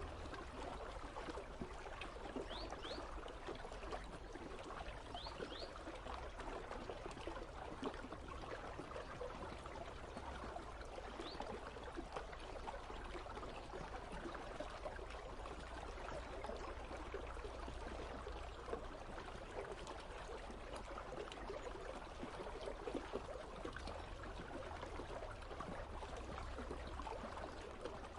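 River water flowing and trickling steadily, a continuous gurgling rush with small splashes. A few faint, short, high rising chirps cut through it in the first half.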